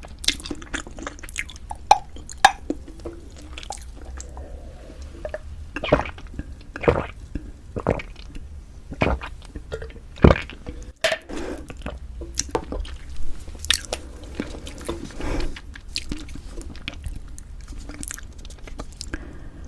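Close-miked eating: a person chewing and biting food with wet, squishy mouth sounds and irregular sharp clicks, a few louder smacks standing out along the way.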